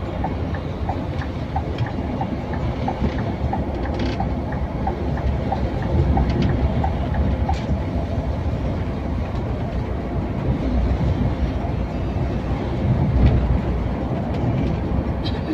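Scania K410iB coach on the move: a steady low rumble of engine and road noise, with light ticks repeating about twice a second.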